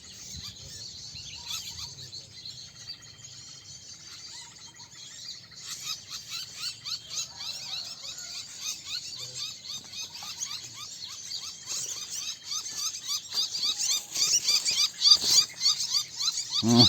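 Many small birds chirping and calling rapidly in a dense chorus that grows louder and busier toward the end. A short low thump comes just before the end.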